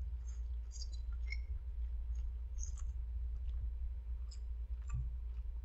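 Faint, scattered wet mouth clicks and smacks of a man chewing a mouthful of spicy stir-fried instant noodles, over a steady low hum.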